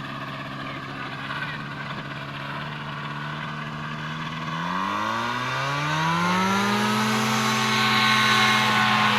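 Paramotor engine and propeller running steadily, then throttling up about halfway through: the pitch rises over a couple of seconds and the sound grows louder, holding at the higher speed near the end.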